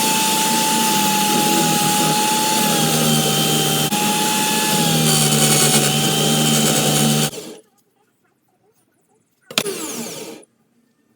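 A power tool running steadily with a high whine, cutting off abruptly about seven seconds in; after a pause it runs again briefly for about a second near the end.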